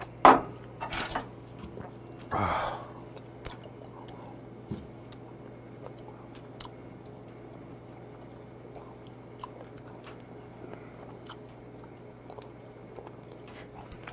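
A glass set down on a wooden table with a sharp clack, then a short breathy exhale after the drink, followed by quiet chewing of limpet meat with small clicks of chopsticks.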